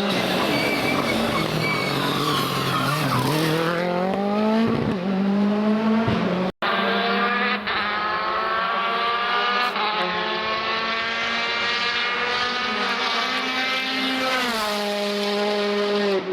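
Rally car engine at full throttle on a stage: the note dips, then climbs hard, and after an abrupt cut a second car holds a long, slowly rising note at high revs before dropping sharply near the end as it lifts off.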